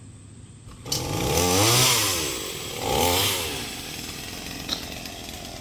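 Chainsaw comes on suddenly about a second in and is revved up twice, its pitch rising and falling each time, then runs on at a lower, steadier level.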